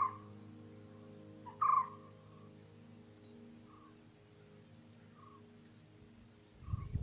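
Bird calls: two short, loud calls at the start and a second and a half later, then a thin high chirp repeated about twice a second with a few softer calls between. Under them a steady low hum fades out, and there are a few low thumps near the end.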